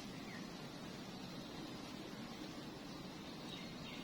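Faint steady outdoor background noise, with one brief faint chirp about a third of a second in.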